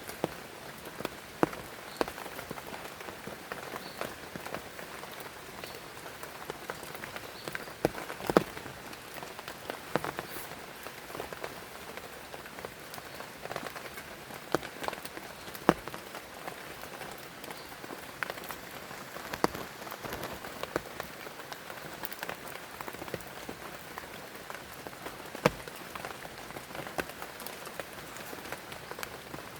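Steady rain falling, an even hiss with irregular sharp drops striking a surface close by, a few of them much louder than the rest.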